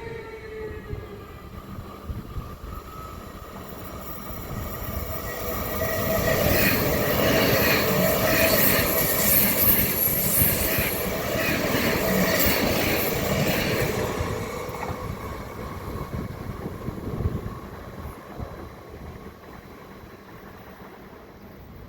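A train passing by on the tracks: a falling whine in the first second, then the wheel and rail noise swells to its loudest in the middle, with rattling and some wheel squeal, and fades away towards the end.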